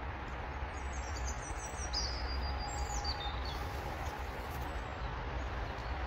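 A songbird singing a quick phrase of high notes that step down in pitch, from about a second in to past three seconds, over a steady low rumble of outdoor background noise.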